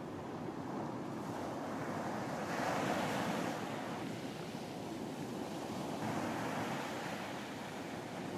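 Ocean waves breaking and washing up on a beach, a steady surf rush that swells as a wave breaks about two and a half seconds in and again near six seconds, with some wind on the microphone.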